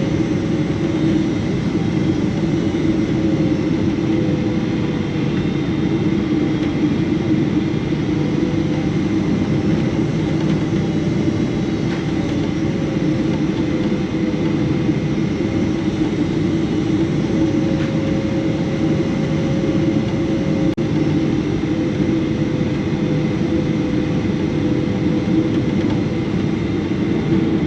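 Boeing 777-300 cabin noise heard from a window seat: the steady rumble of the jet engines and the airflow, with a faint whine that slowly wavers in pitch and a thin high steady tone.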